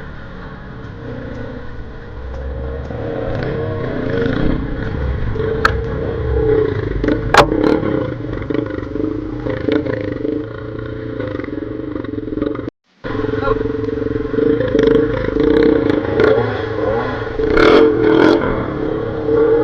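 Off-road trail motorcycle engine running under a rider, its pitch rising and falling as the throttle is worked, with a few sharp knocks and rattles from the bike on rough ground. The sound drops out completely for a moment about two-thirds of the way through.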